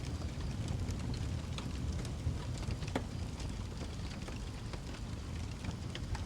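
Wood fire in a fireplace crackling, with scattered sharp pops over a steady low rumble of the flames; one louder pop about three seconds in.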